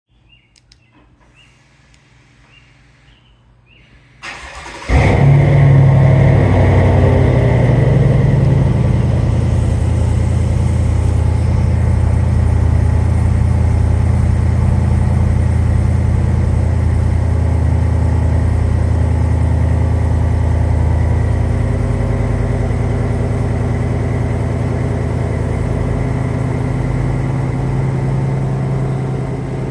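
Truck engine cold-starting through a true dual exhaust with an X-pipe, Thrush welded mufflers and the resonators removed. After a brief crank about four seconds in, it catches with a sudden loud burst, then settles into a steady rumbling high idle that eases down slowly.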